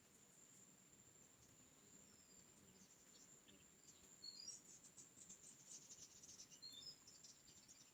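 Faint small songbirds chirping, with two short runs of rising notes about four and a half and six and a half seconds in. A steady high-pitched insect drone runs under them.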